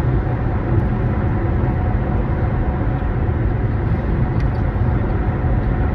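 Steady low rumble inside a car: engine and road noise in the cabin.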